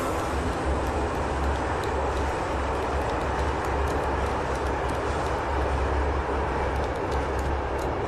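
Steady low rumble of a moving passenger train heard from inside the carriage, with faint scattered clicks and rattles.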